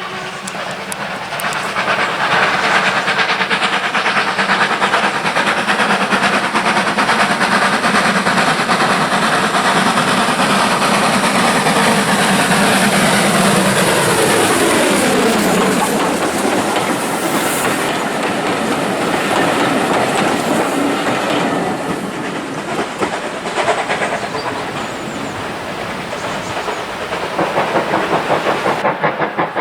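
A steam-hauled train passing at speed: the clatter of wheels and rails swells, and its tones fall in pitch as it goes by about halfway through. It then eases off into a fast, regular beat near the end.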